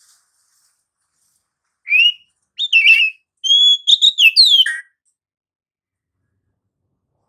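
Oriental magpie-robin (kacer) singing: three short phrases of clear whistled notes that slide up and down, over about three seconds.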